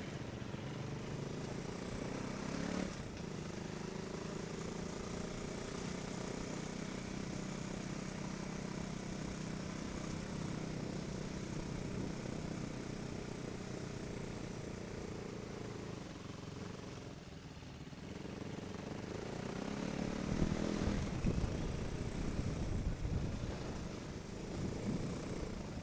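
Off-road trail motorcycle engine running under way, a steady engine note at part throttle. About two-thirds of the way through the engine eases off briefly, then picks up again and runs louder and rougher with throttle blips near the end.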